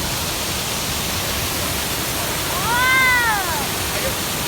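Steady rushing noise of a waterfall, with a single meow-like call about two and a half seconds in that rises and falls in pitch over about a second.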